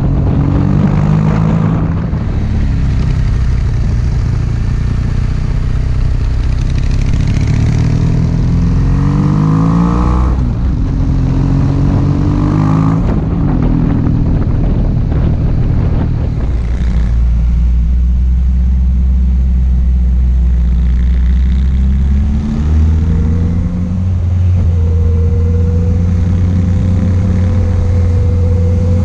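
Motorcycle engine heard close up from a camera on the bike while riding, its pitch rising several times as it pulls through the gears, over a constant rush of wind and road noise. Toward the end the engine holds a steady note while cruising.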